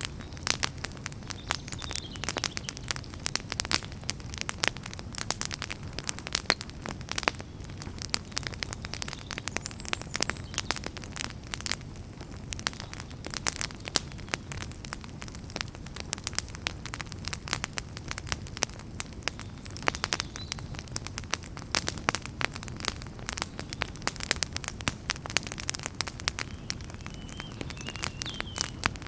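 Wood fire crackling, with frequent sharp snaps and pops over a steady low rumble of burning.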